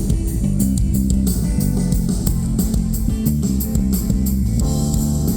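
Live rock band playing an instrumental passage: a moving bass guitar line under guitar, with drums keeping time on the cymbals. About four and a half seconds in, a fuller sustained chord comes in over the groove.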